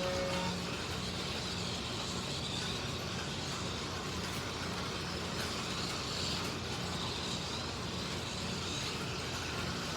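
Slot cars running laps on a track: their small electric motors and tyres make a steady whirring noise. A brief tone near the start stops about half a second in.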